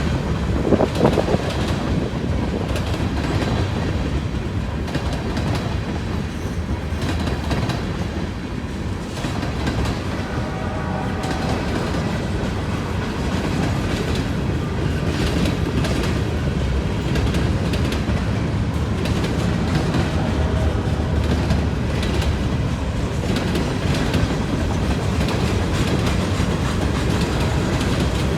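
Pan Am Railways freight train rolling past at close range, its wheels clicking rhythmically over the rail joints under a steady rumble.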